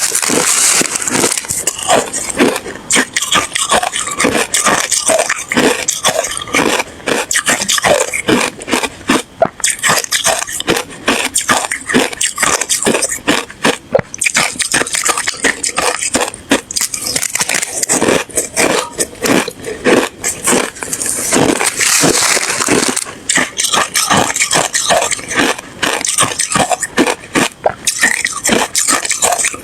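Ice being bitten and chewed close to the microphone: a continuous run of loud, sharp crunches, several a second.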